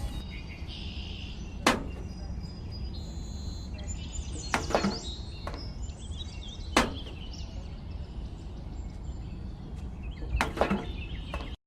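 Five or six sharp knocks, a second or several apart, over a faint background with small high chirps.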